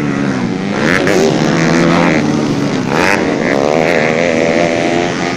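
Racing dirt bike engines running hard on the track, their pitch climbing and dropping again and again as the riders rev through the gears.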